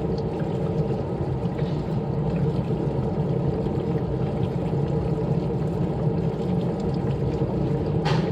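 Washing machine running through its wash cycle: a steady machine hum with water sounds inside the drum. A short click about eight seconds in.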